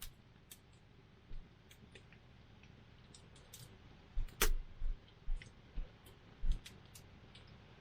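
Wood campfire crackling: scattered sharp pops and snaps over a faint hiss, with one louder pop about four and a half seconds in. A few low thuds come in the second half.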